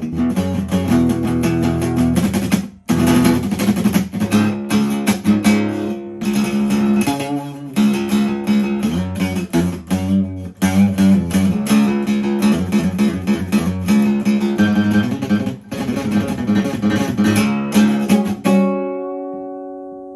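Rock music instrumental passage of strummed guitar chords with bass and drums. About eighteen seconds in, the playing stops on a final chord that rings on and fades away.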